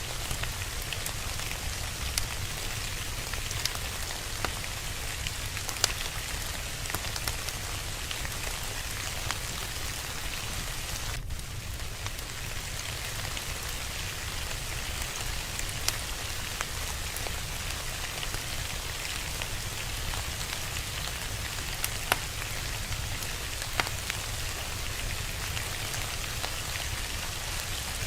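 Steady rain, with scattered sharp pops and crackles from a wood fire a few times over.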